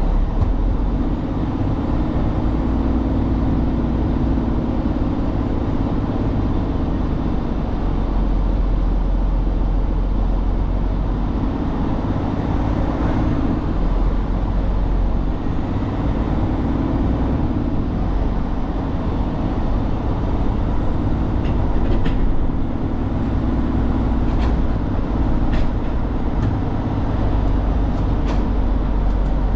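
Truck engine running steadily, heard from inside the cab as a low drone that rises and falls slightly, with a few light clicks in the last several seconds.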